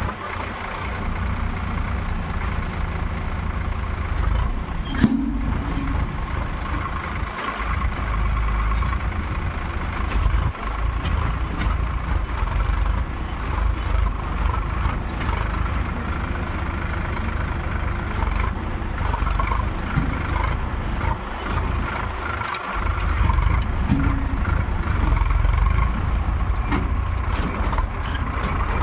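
Heavy diesel engine running steadily with a deep rumble and a whine above it, easing off briefly a few times.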